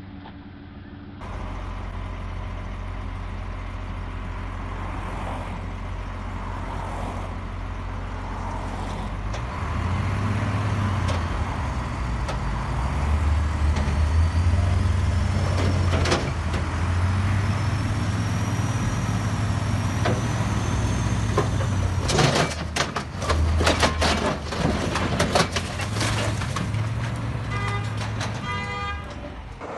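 Heavy truck engine running with a steady low rumble that gets louder about ten seconds in, then a run of knocks and clatter, with a short stretch of evenly spaced beeping near the end.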